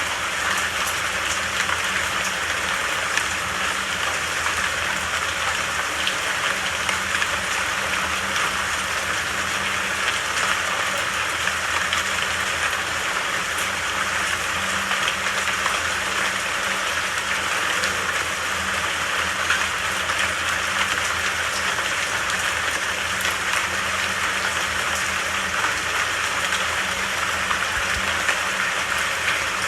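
Steady rain falling, an even unbroken hiss with a faint low rumble underneath.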